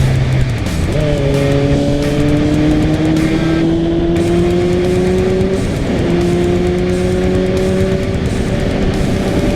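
Motorcycle engine pulling under steady acceleration, its pitch climbing slowly, with a short break about six seconds in like a gear change, under loud wind and road rush.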